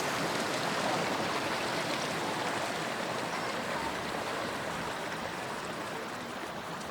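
Steady rush of running water, easing off slightly toward the end.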